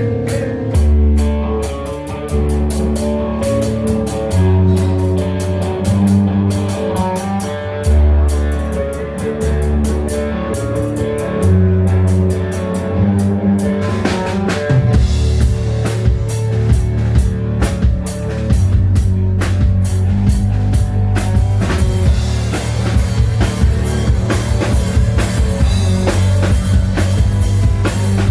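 Hard rock band playing, drum kit with bass drum and snare over held low notes; about 14 seconds in the drums pick up into a denser, driving full-band beat.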